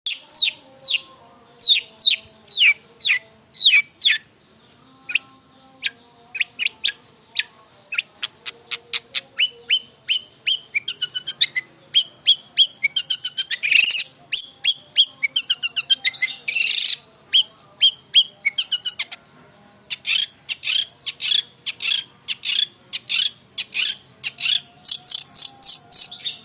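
Long-tailed shrike (cendet) singing without pause: runs of quick, downward-sweeping whistled notes and fast chattering series, with two harsh, scratchy notes around the middle and higher, thinner notes near the end.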